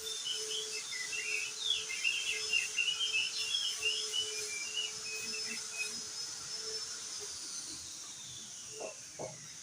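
Crested white-eye (opior jambul) singing a rapid, jumbled run of short high chirps for about six seconds. Under it are a steady thin high whine that slides downward near the end, and a faint low hum. Two short low calls sound just before the end.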